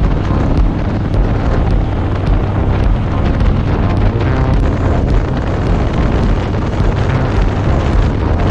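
Motorcycle engine running at speed with heavy wind buffeting on the microphone, a steady rumble and rush of noise.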